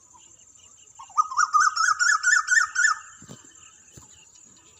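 A bird calling in a fast series of about eight or nine loud, repeated notes, about five a second, lasting a little under two seconds. A thin steady high-pitched tone runs underneath throughout.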